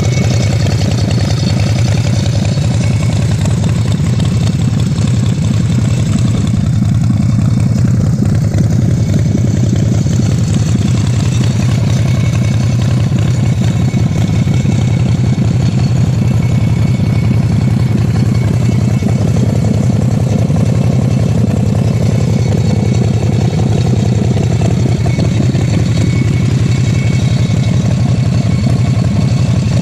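Chopper Nation Twister Pro Street custom chopper's V-twin engine idling steadily, with no revving.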